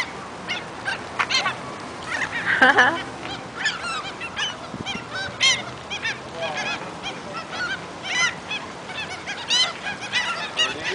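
A flock of birds calling, with many short, sharp calls repeating and overlapping throughout.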